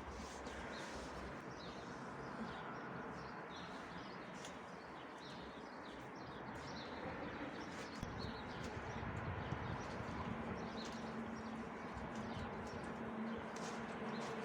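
Birds chirping, many short high calls one after another, over a steady background hiss; a low steady hum joins a little past halfway.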